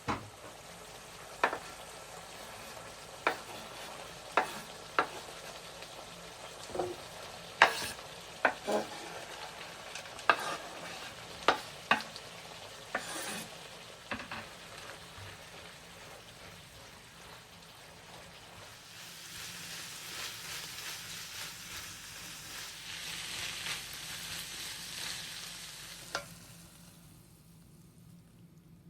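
Food sizzling in a frying pan while a utensil stirs it, knocking sharply against the pan a dozen or so times. Later the sizzle swells louder for several seconds, then ends with a knock and cuts off suddenly.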